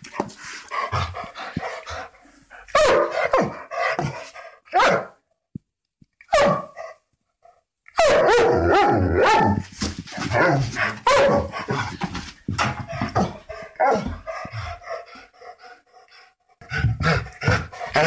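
A young dog barking in runs of short, sharp barks, with a pause of a couple of seconds about a third of the way in broken by a single bark. Near the end a second, larger dog starts barking.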